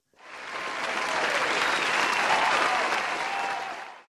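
Crowd applause that swells in, holds steady, and cuts off abruptly near the end.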